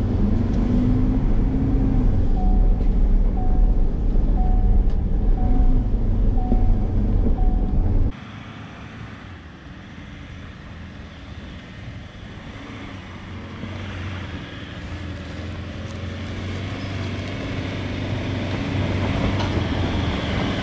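A four-wheel drive's engine working hard, towing a trailer up a steep hill, with a short beep repeating about once a second. About eight seconds in it cuts abruptly to a quieter, more distant engine sound with wind noise, which slowly grows louder.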